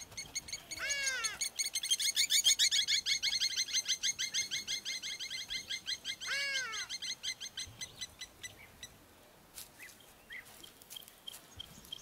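Birds calling: a rapid, even chatter of high chirps, with a drooping call about a second in and another about six seconds in. The chatter fades after about eight seconds into fainter scattered chirps.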